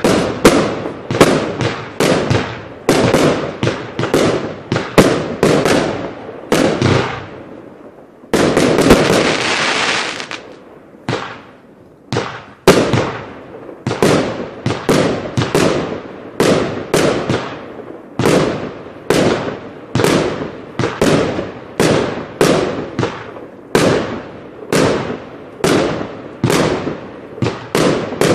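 Gringo compound firework cake firing a rapid run of shots, about two a second, each a sharp bang with a short crackling tail. About eight seconds in, a continuous hissing, crackling burst lasts some two seconds. After a short lull the shots resume at the same pace.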